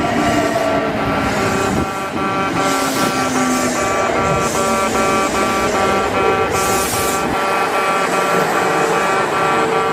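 An electric train's motor whine slides down in pitch as it brakes into the station. Over it, a railway crossing warning bell rings steadily, its electronic tone repeating several times a second.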